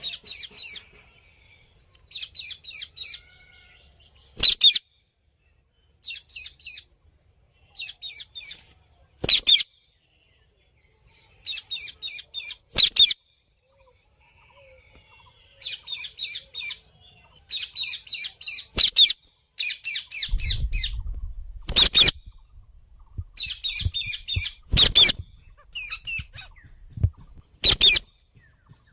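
Ring-necked parakeets calling in bursts of rapid, high chattering chirps every couple of seconds, broken by short, sharp, louder notes.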